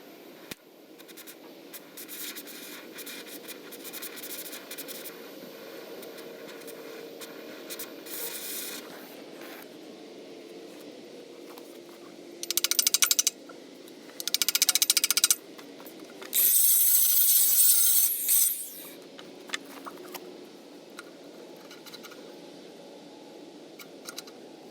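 Metalwork on the steel bosses of an excavator thumb bracket: several seconds of scraping and rubbing, then three loud bursts of harsh tool noise, each lasting about one to two seconds, a little past halfway through.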